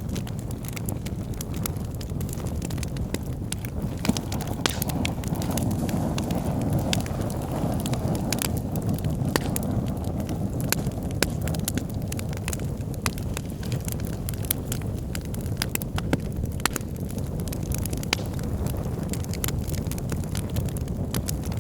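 Wood fire in a fireplace burning steadily, a low rush of flames under frequent sharp crackles and pops from the burning logs.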